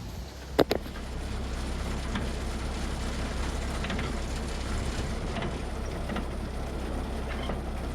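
Two sharp clicks, then a steady low motor drone from about a second in, with faint scattered ticks and creaks, as the tow rig sets to pulling the truck.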